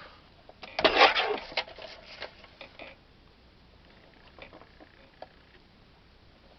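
Card stock being trimmed to size on a paper trimmer: a cluster of scraping and clicking lasting about two seconds, followed by a few faint ticks.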